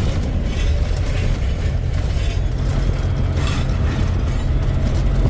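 Kenworth K100 cab-over's diesel engine running steadily under way, heard from inside the cab, with a few short rattles and clatters from the cab.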